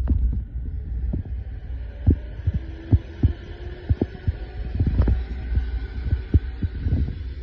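HG Power 6-inch, 308 CFM metal exhaust fan running: a steady low hum with a faint airy hiss above it, broken by irregular low thumps. It is not terribly loud but not really quiet either.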